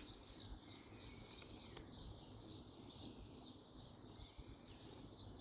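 Faint birdsong, a string of short high chirps repeated steadily, over near silence, with a light click about two seconds in.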